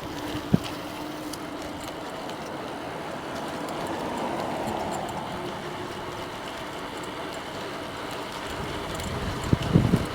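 Steady riding noise of a bicycle on pavement, tyre hum and wind on the microphone, with a faint whine, swelling a little in the middle. A single sharp knock about half a second in.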